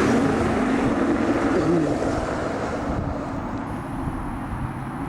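Twin-turbo V12 engine of a Zonda-style kit car running with wind noise. The sound dies away over the first three seconds, leaving a quieter hiss.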